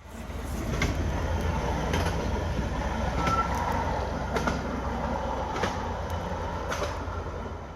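Train rolling along the railroad: a steady low rumble with a sharp clack about once a second, wheels crossing rail joints.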